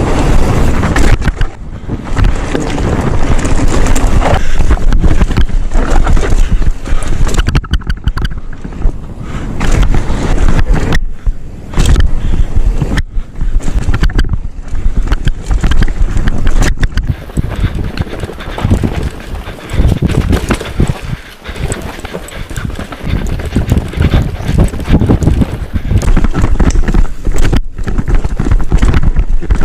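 Mountain bike riding down a dusty dirt trail at speed, heard on a GoPro's microphone: wind buffeting the microphone over tyre noise and the bike rattling on rough ground. The noise drops away briefly several times.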